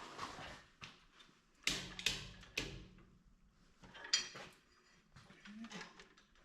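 Irregular metal clanks and knocks from handling heavy tractor parts and tools, with three hard knocks in quick succession about two seconds in and a ringing metal strike about four seconds in.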